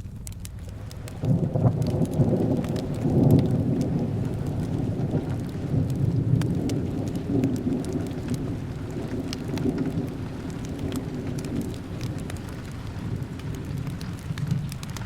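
A roll of thunder starts suddenly about a second in, is loudest in the first few seconds, then rumbles on and slowly fades, over steady rain and the small sharp crackles of a fireplace.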